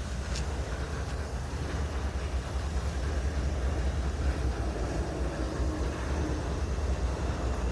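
Freight train approaching slowly: a steady low rumble from the locomotives that grows gradually louder.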